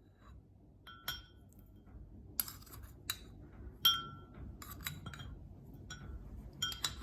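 A spoon clinking against a glass dish while crushed biscuit is spooned in as a pudding base. There are several sharp, irregularly spaced clinks, some with a short ringing tone, and the loudest comes about four seconds in.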